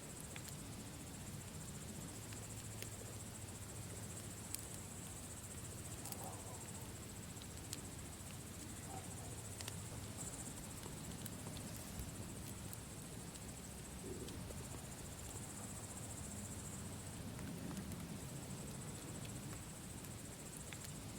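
Campfire crackling with scattered sharp pops, over crickets chirring steadily in a high, even band.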